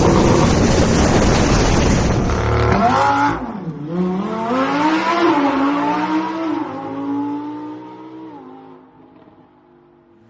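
Lamborghini Huracán Performante's V10 at full throttle passing close and loud. It then pulls away with its engine note dipping and climbing again through gearchanges, and fades out over the last couple of seconds.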